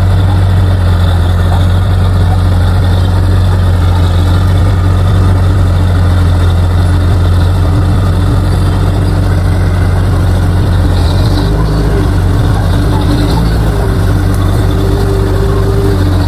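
Bulldozer's diesel engine running steadily with a low, even drone. A faint higher whine joins in over the last few seconds.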